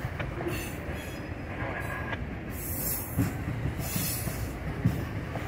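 Freight train of covered hopper cars rolling slowly past, the steel wheels rumbling on the rail, with a few short high-pitched wheel squeals and hisses and a couple of clanks, the loudest near the end.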